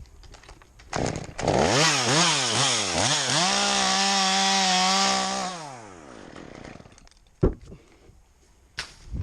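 Chainsaw engine revved up and down about three times, then held at high revs for about two seconds before winding down and fading out. Two sharp knocks follow near the end.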